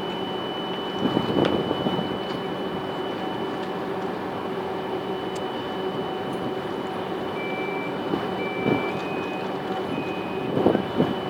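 Electric VR double-deck passenger train standing at the platform, its equipment giving a steady hum with a constant high whine. Short electronic beeps sound a few times near the end.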